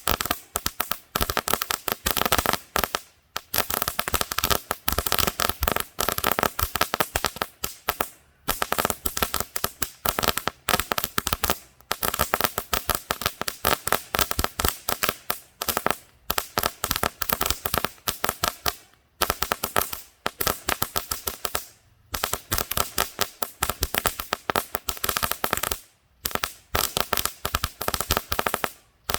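Singing Cicadas crackling fireworks going off: dense, rapid crackle of many small sharp pops in runs of a few seconds, broken by brief pauses.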